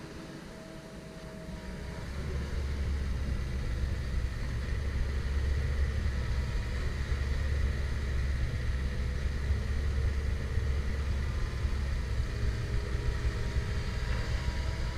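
Komatsu PC170LC-10 hydraulic excavator's diesel engine running. It grows louder about two seconds in and then stays at that level as the machine works under load.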